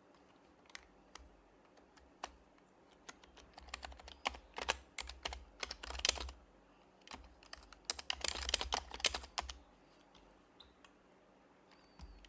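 Typing on an HHKB Professional Hybrid Type-S keyboard with its silenced Topre switches: scattered single keystrokes, with two quick runs of rapid typing in the middle.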